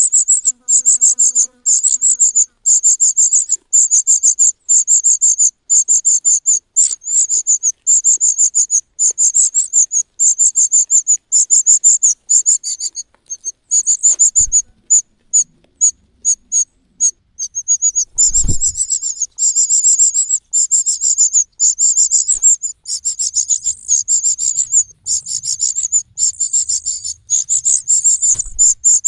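Cuckoo chick begging: a loud, rapid, near-continuous string of short, high-pitched calls, with a brief lull about halfway through. Two low thumps come in the middle.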